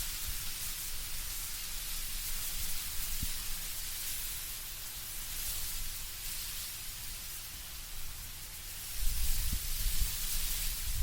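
Wind through autumn trees with leaves rustling: a steady hiss that swells and eases. A low rumble builds up about nine seconds in.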